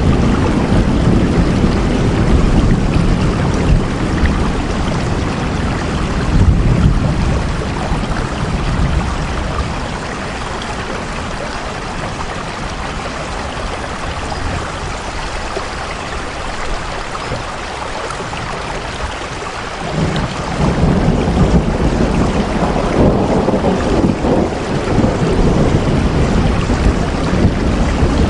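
Steady rain falling with a deep, low rumble beneath it. It eases in the middle and swells again about two-thirds of the way through.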